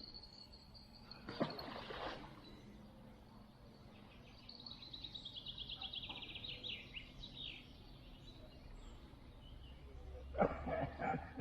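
A songbird singing a fast trill of repeated notes that falls steadily in pitch over about three seconds, against a quiet outdoor background. A brief knock comes about a second and a half in, and a person's voice near the end.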